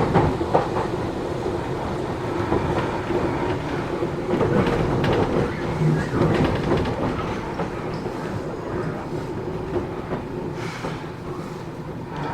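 Matsumoto Electric Railway 3000 series electric train running, heard from inside the car: a steady rumble of wheels on rail with a steady hum and the clickety-clack of rail joints.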